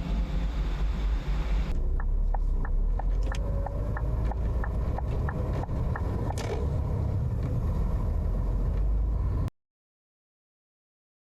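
Heavy truck running with a steady low rumble, with a run of evenly spaced ticks, about three a second, over a few seconds in the middle. The sound cuts off abruptly near the end.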